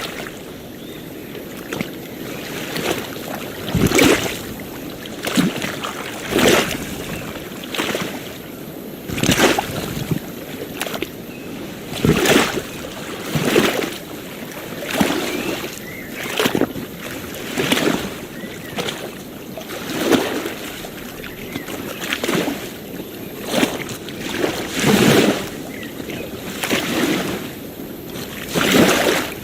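Small waves lapping on a beach: a steady wash of water with a swell rising and falling about every second and a half.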